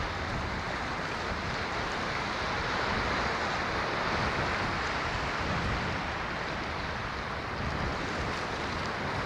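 Ocean surf: a steady wash of breaking waves that swells gently and eases off again, with no single crash standing out.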